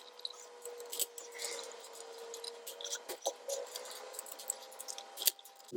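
Scattered light clicks and taps of hand tools working on a cylinder head of the E55 AMG's engine, irregular and with no steady rhythm, over a faint steady hum.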